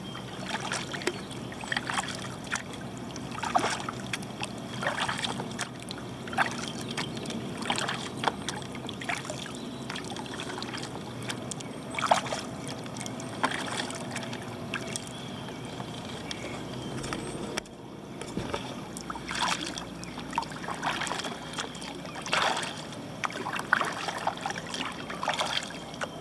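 Kayak paddle strokes: the blades dip and splash, with water dripping off them, about one stroke every second and a half.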